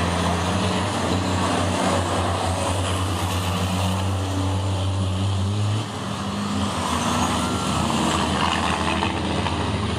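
Racing trucks' big diesel engines running on the circuit, a steady low drone with a noisy wash over it. The drone drops briefly about six seconds in, then picks up again.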